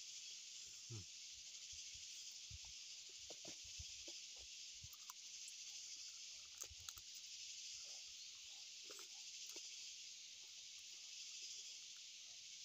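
Faint chewing and mouth sounds of people eating chicken curry by hand: scattered soft clicks and smacks over a steady high hiss.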